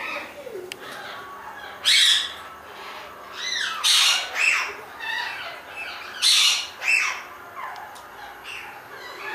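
A bird calling repeatedly: about eight short, loud calls, each bending up and down in pitch, spaced a second or so apart.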